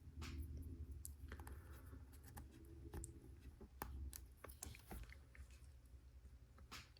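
Faint, scattered clicks and rustles of plastic LEGO Technic pieces being handled and fitted together.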